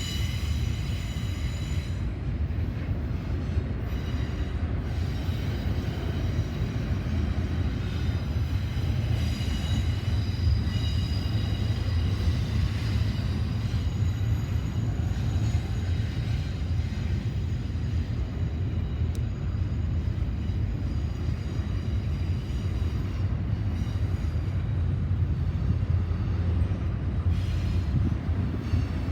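Freight train cars rolling past with a steady low rumble, with high-pitched wheel squeal near the start and again about a third of the way through.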